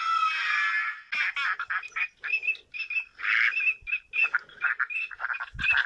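A chorus of many short animal calls, repeated and overlapping in quick succession, with a brief low thump near the end.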